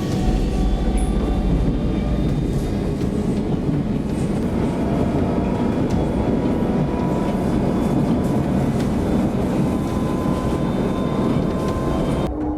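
A loud, steady rumbling noise with faint high whining tones over it, cut off abruptly near the end.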